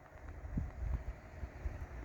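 Wind buffeting the microphone in uneven gusts, a low rumbling blow that swells and fades.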